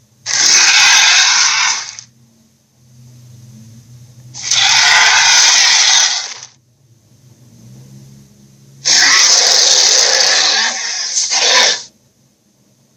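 Three loud, rasping monster roars in the style of the kaiju Slattern, each lasting about two to three seconds, with short pauses and a low steady hum between them; the last roar is the longest.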